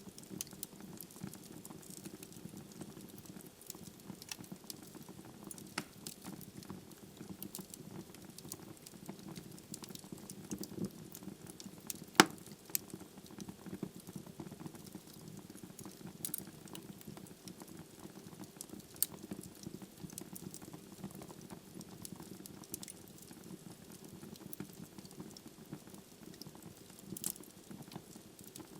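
Wood logs burning in a fireplace: a steady low rush of flame with scattered crackles and pops, and one sharp, much louder pop about twelve seconds in.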